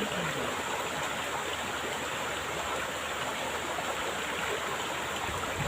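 Steady rush of a flowing stream or river.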